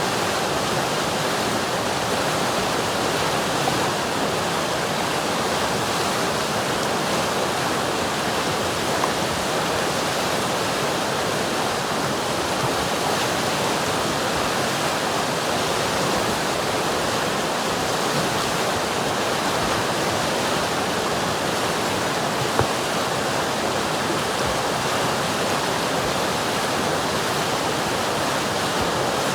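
River water rushing over rocks: a steady, even, full-bodied rush of flowing water with no change in level.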